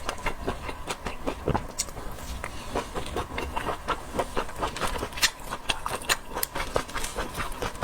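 Close-up eating sounds: a dense, irregular run of small clicks and wet smacks from chewing and handling shellfish.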